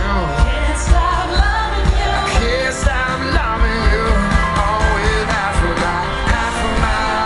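A live pop-rock band playing with singing, a steady drum beat and bass.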